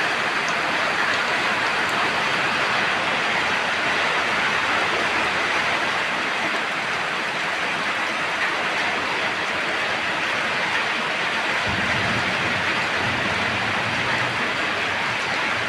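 Steady rain falling, an even dense hiss of drops. A low rumble joins in underneath about three quarters of the way through.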